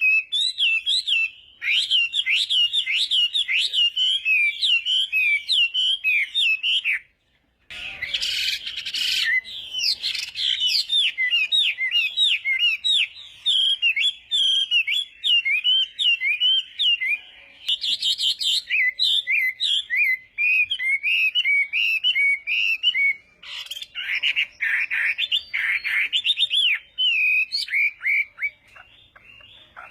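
Chinese hwamei singing a long, rapid, varied song of quick sweeping whistled notes, typical of its competition song. It breaks off briefly about seven seconds in, followed by a short noisy burst, and turns harsher in places near the end.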